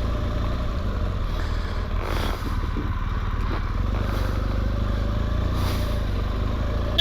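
BMW R1200GS motorcycle's boxer-twin engine running steadily under way.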